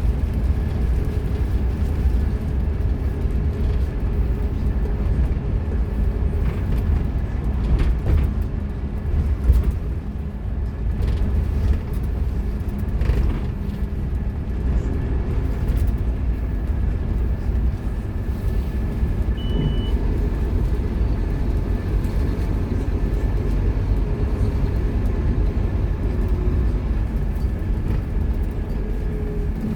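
Scania K230UB Omnilink bus's diesel engine running steadily as the bus drives, with a steady whine over the rumble. A brief high beep sounds about nineteen seconds in.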